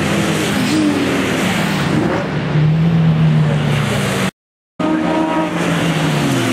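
Racing cars' engines running hard on the circuit, several engine notes overlapping. The sound drops out completely for about half a second midway, and near the end the engine notes fall in pitch as cars pass.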